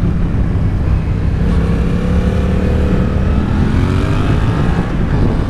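Yamaha MT-07 parallel-twin engine running while riding, under steady wind rush on a helmet-mounted microphone. The engine note holds level, then rises about three and a half seconds in as the bike accelerates.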